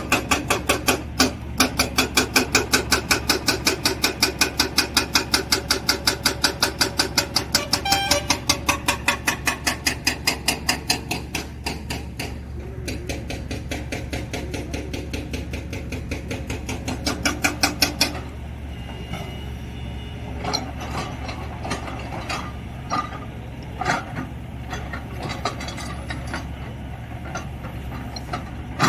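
A JCB earthmover working rock. A fast, regular metallic clatter of about five or six blows a second runs over a steady diesel engine hum, fades, surges briefly and then stops abruptly. Scattered clanks and knocks of metal on rock follow.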